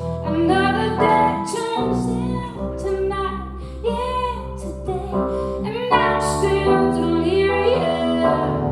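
Live rock band playing with a woman singing lead, the notes held and sliding over a steady bass and keyboard backing.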